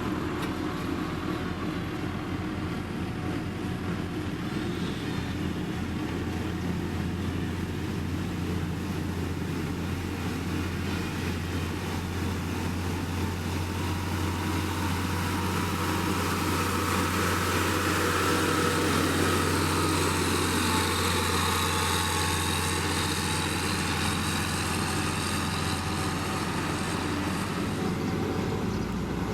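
Diesel engine of heavy road-building machinery running steadily, with a rough mechanical rumble over it that grows a little louder partway through.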